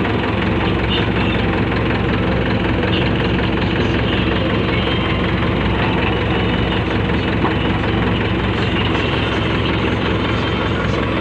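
Heavy diesel engine running steadily at an unchanging speed.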